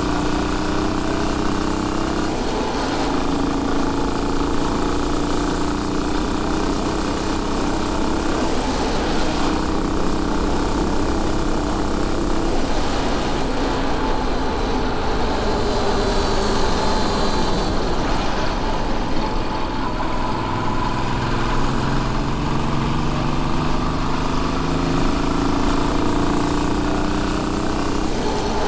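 Royal Enfield Bullet 500's single-cylinder engine running under way, its pitch climbing and then dropping back several times as the bike speeds up and changes gear, over a steady rush of wind and road noise.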